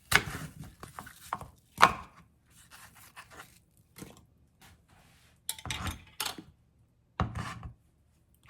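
A kitchen knife on a wooden cutting board: scattered knocks and short scraping strokes with pauses in between, rather than steady chopping.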